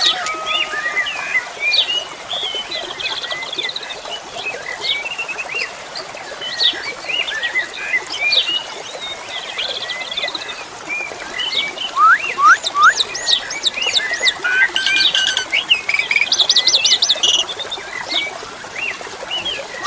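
Pied starling (jalak suren) singing: a long run of varied whistles, chirps and rising squeaks, thickening into fast rattling series in the second half, over a steady wash of flowing water.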